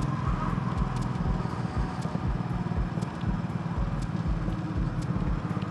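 Motorcycle engine running at a steady cruising speed, with road and wind noise.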